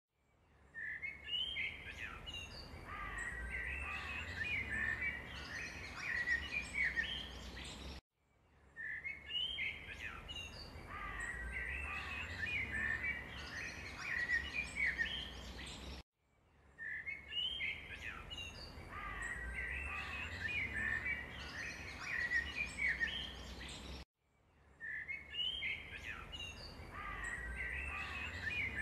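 Small birds chirping and twittering over a low background rumble, an identical 8-second recording repeated as a loop, with a brief silence and a restart about every eight seconds.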